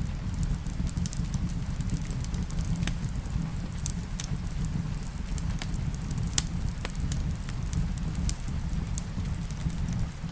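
Wood fire crackling in a fireplace: frequent sharp pops scattered over a steady low rumble.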